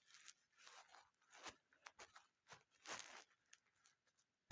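Faint, irregular scratchy strokes of a pen or stylus drawing: about a dozen short strokes in quick succession.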